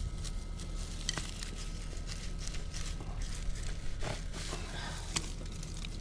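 Rustling and crackling of weeds and plant stems being handled during hand weeding, with scattered sharp snaps, the busiest stretch a little past the middle, over a steady low rumble.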